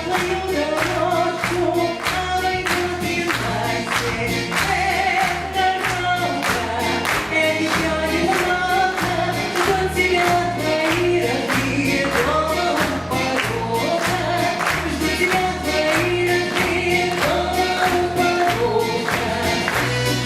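A song: several voices singing a melody together over a steady drum beat and bass line.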